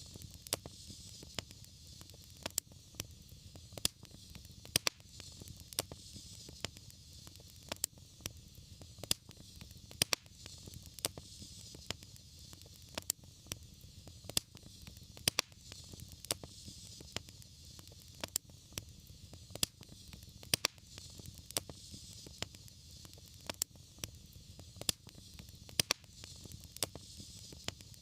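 Wood fire crackling in a fireplace: irregular sharp pops about once or twice a second over a steady low rumble and a soft hiss.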